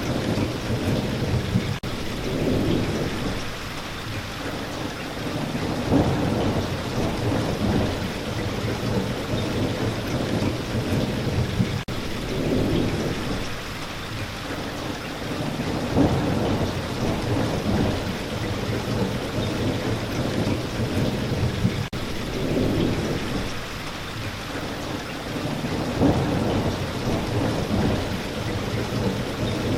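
Steady spring rain falling, with low rumbling swells that build and fade about every ten seconds.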